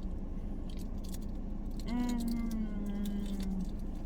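A steady low hum of a running car and its air conditioning, with light clicks and rattles of plastic utensils and food containers while eating. About two seconds in, a held hum, slightly falling in pitch, lasts about a second and a half.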